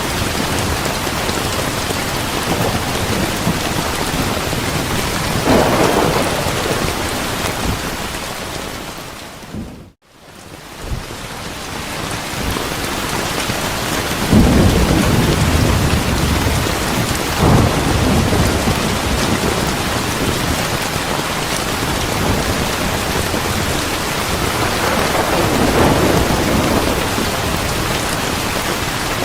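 Steady heavy rain with several low rolls of thunder. The whole sound briefly fades almost to silence about a third of the way through and then fades back in.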